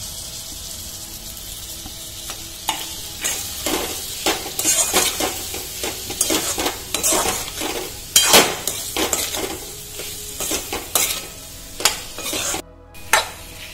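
Sliced bitter gourd frying and sizzling in oil in a metal kadhai, stirred with a wooden spatula. After a steady sizzle at first, the stirring sets in with repeated irregular scrapes and knocks of the spatula against the pan.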